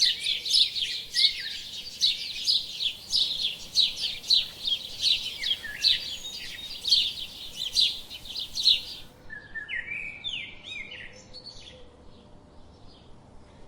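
Small birds chirping rapidly, several short high calls a second. About nine seconds in, the sound changes abruptly to a few scattered, lower chirps, and it grows quieter toward the end.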